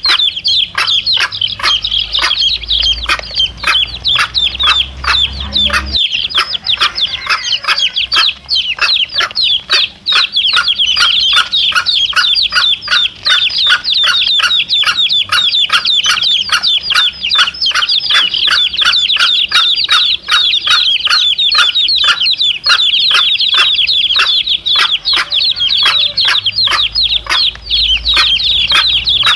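Chicken chicks peeping continuously in rapid high chirps, several a second, with a mother hen clucking low beneath them.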